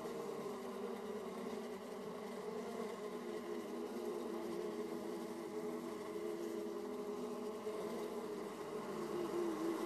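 Honeybees buzzing at the hive entrance: a dense, steady hum of many overlapping wingbeat tones, with one buzz growing louder near the end as a bee comes close.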